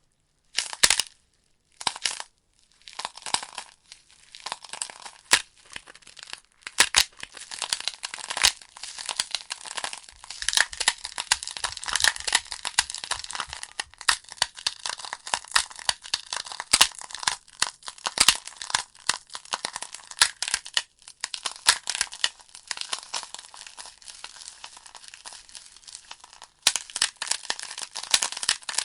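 Burning logs in a fireplace crackling: sharp pops and snaps over a steady hiss of the flames. Only a few separate pops in the first couple of seconds, then a dense, continuous crackle.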